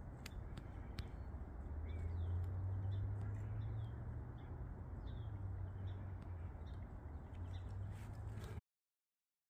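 Scattered faint, short bird chirps over a steady low rumble, with a few sharp ticks; the rumble swells about two seconds in, and the sound cuts off shortly before the end.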